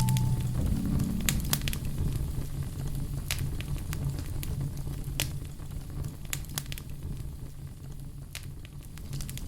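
Fireplace fire crackling, with sharp pops at irregular intervals over a low rumble of flames. The end of a music chord fades out in the first second.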